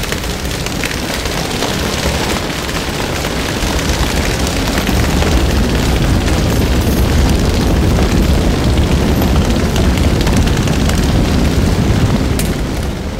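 A crowd making a body-percussion 'thunderstorm' together: a dense rumble of many hands and feet drumming, growing louder through the middle to its peak and starting to die down near the end.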